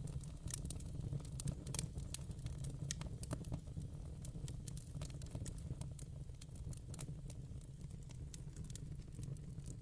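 Wood fire burning in a fireplace, with a steady low rumble and irregular sharp crackles and pops.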